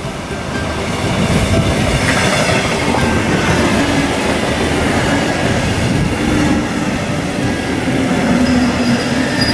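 Double-deck regional train coaches rolling past along the platform as the train comes into the station: steady wheel and rail noise with clattering over the rail joints, and a squealing tone joining in about six seconds in.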